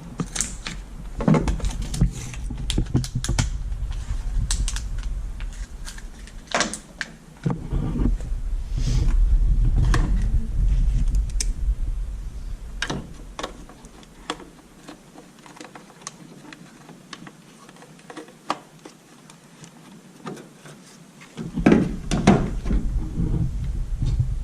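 Irregular small plastic clicks and taps from handling a tail light bulb, its twist-in socket and the lamp housing, with stretches of low rumble in between.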